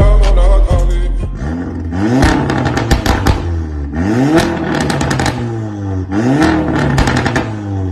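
Volkswagen Polo GT engine revved three times through an aftermarket exhaust. Each rev rises and falls, followed by a burst of crackles and pops on the overrun. Bass-heavy music fades out in the first second or so.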